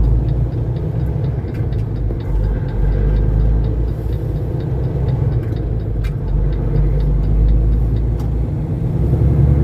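Semi truck's diesel engine running with a steady low rumble as the truck pulls away, heard from inside the cab, with a faint regular ticking over it.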